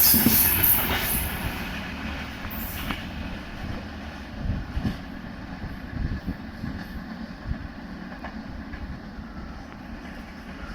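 Passenger coaches of an express train running through a station without stopping, wheels knocking and rumbling on the rails. The noise fades over the first few seconds as the train draws away.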